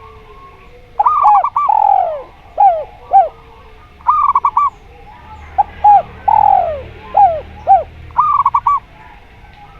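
Zebra doves (perkutut) and a derkuku dove cooing in turn. Groups of short arched coos alternate with quick runs of four or five higher staccato notes and a few longer falling coos, starting about a second in.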